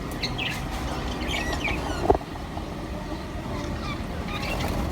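Small pet parrots in an aviary chirping in short, scattered calls over a steady low rumble, with a brief knock about two seconds in.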